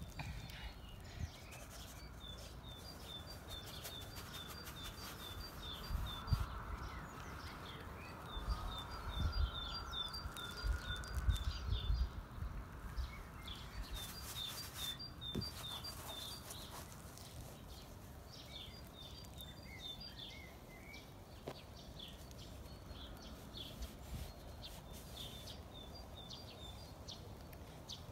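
A small bird singing series of short, evenly repeated high chirps, about three a second, in several bouts. Low rumbles in the first half.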